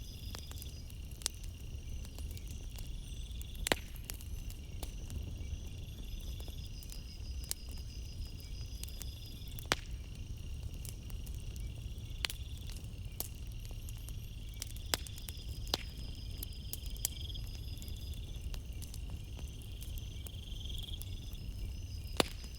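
Campfire crackling, with sharp pops every few seconds over a steady low rumble, while crickets chirp in a continuous pulsing trill.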